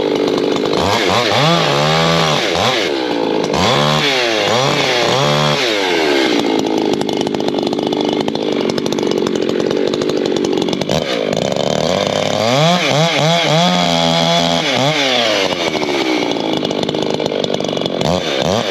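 Ported Echo two-stroke chainsaw revving up and down repeatedly. In the middle it holds a steadier, lower pitch under load as it cuts into oak, then goes back to rising and falling revs.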